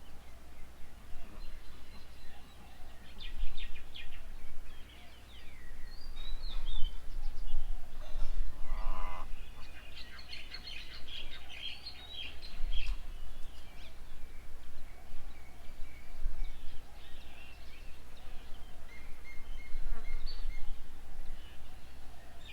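Several birds chirping and chattering at a bird table, short high calls coming in clusters throughout, with one lower, stronger call a little before halfway.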